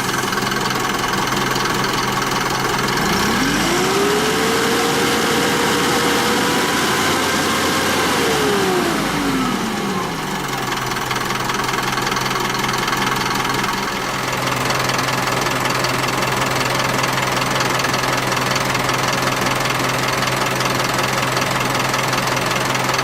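Isuzu Elf truck's 3-litre intercooled turbo diesel engine idling, then revved up about three seconds in, held for several seconds and let fall back to idle by about ten seconds in, after which it idles steadily.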